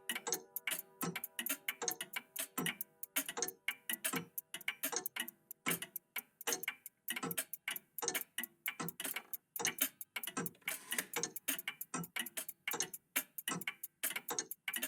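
Several old mechanical clocks ticking at once, their ticks overlapping out of step into a dense, uneven clatter. A few ringing tones die away in the first second or so.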